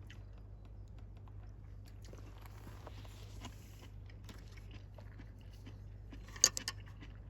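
Quiet eating sounds: chewing and small taps of tableware, with one sharper click about six and a half seconds in.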